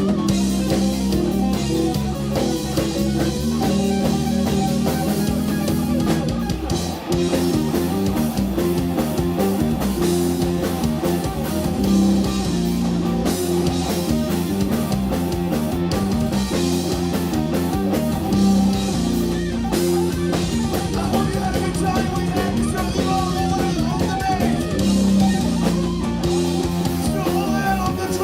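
Live instrumental rock from a guitar, bass and drums trio: electric guitar, bass guitar and drum kit playing together.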